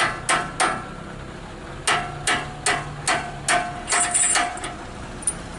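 Hammer blows on metal with a short ring after each: three quick strikes, then after a pause a faster run of about eight, some three a second. A truck engine idles underneath.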